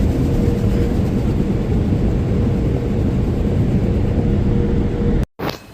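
Automatic car wash's spinning brushes beating on the car, heard from inside the cabin as a loud, steady rumble with a faint hum. It cuts off suddenly near the end.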